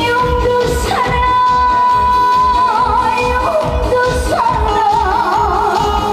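Live trot music: a female voice holding long notes with vibrato over an amplified backing band with a steady kick-drum beat.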